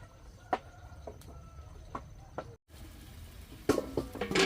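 Scattered light knocks and clinks of a cooking pot and its lid being handled, with a quick run of clattering near the end.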